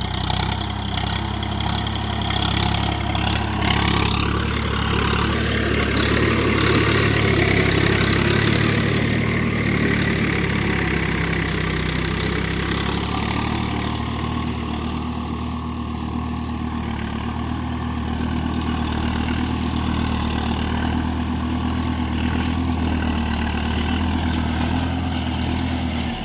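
Swaraj 742 XT tractor's diesel engine running steadily, a little louder around the middle.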